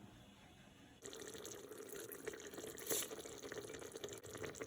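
Water splashing and trickling quietly in the kitchen, with fine crackles and drips. It starts about a second in, after a moment of near silence.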